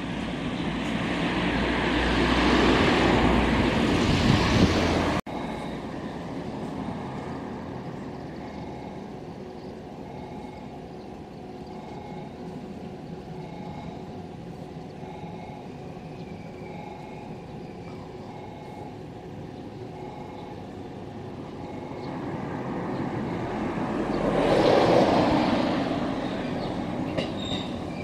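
Wind rumbling on the microphone for about five seconds, cut off abruptly; then a quieter steady outdoor hum as a JR West electric commuter train approaches the platform, with a swell of noise a few seconds before the end and the first faint high squeal of its wheels right at the end.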